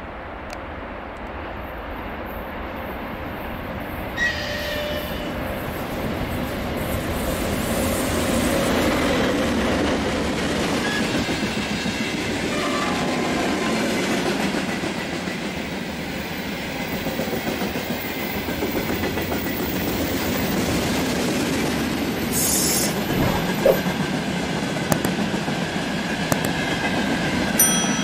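Freight train passing, growing louder over the first several seconds, its wagon wheels clattering over the rail joints, with a few brief high wheel squeals.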